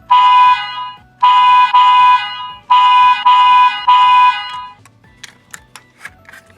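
Electronic horn of a diecast toy truck's sound feature, sounding in loud blasts of one steady pitch: one, then two, then three in quick succession. A few light clicks follow near the end.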